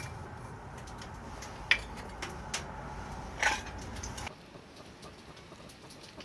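A few sharp clicks and light knocks over a steady low rumble, which drops away abruptly about four seconds in.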